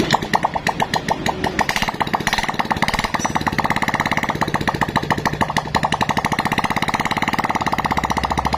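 Freshly rebuilt Honda Supra series single-cylinder four-stroke motorcycle engine catching and running with no exhaust fitted: a loud, fast, even popping of open exhaust pulses.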